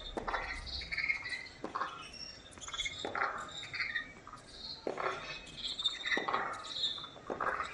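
Birds chirping in short scattered calls, with a dull knock every second and a half or so.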